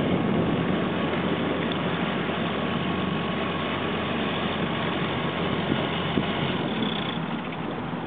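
Boat engine running steadily, a low even drone with water and wind noise over it.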